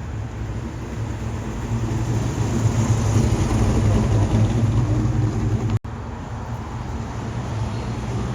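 Muscle car engine running with a steady low rumble. The sound cuts out for a moment about six seconds in.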